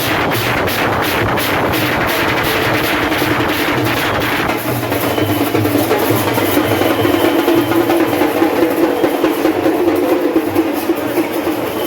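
Procession drums and cymbals playing a fast, steady beat. After about four and a half seconds the beat fades and steadier held tones take over.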